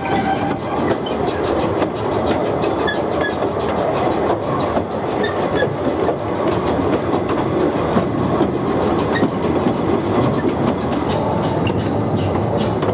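Narrow-gauge passenger train rolling along, its wheels clattering over the rail joints in a steady rumble, heard from an open carriage.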